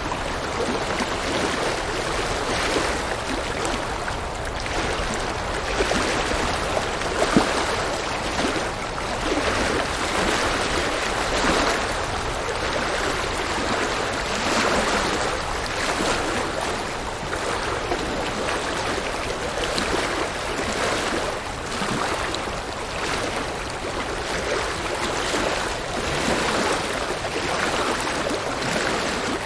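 River water rushing and splashing over rocks in a continuous noise that swells and eases gently.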